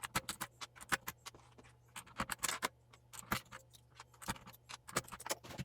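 Plastic keycaps being pried off the switches of a mechanical keyboard, a series of sharp, irregular clicks, several a second, as each cap snaps free of its stem and is set down.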